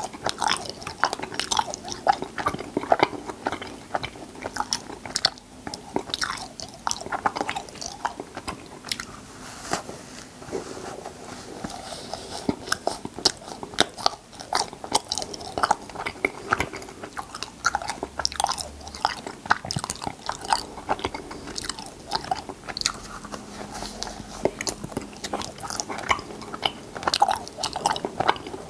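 Close-miked chewing and mouth sounds of a person eating cotton candy: a dense, irregular run of small clicks and smacks.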